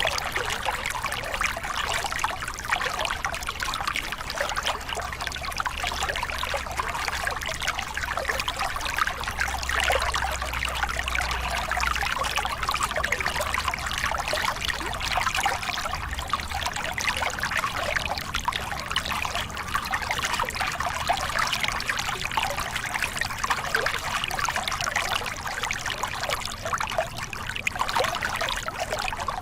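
Small river cascade: water pouring over rocks with a steady, dense trickling and splashing.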